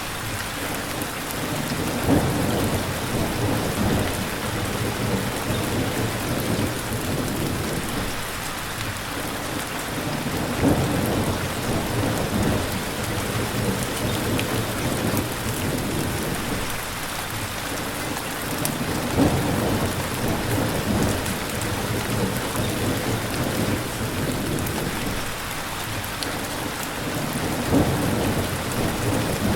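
Steady heavy rain pouring down, with low rumbles of thunder swelling and fading every several seconds.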